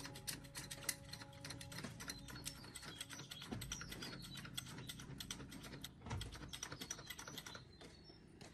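Faint, rapid, irregular clicking and tapping, with a low thump about six seconds in.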